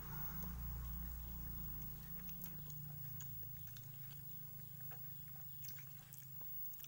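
Someone chewing soft, ripe durian flesh, with small wet mouth clicks and smacks over a low steady hum that fades about three seconds in.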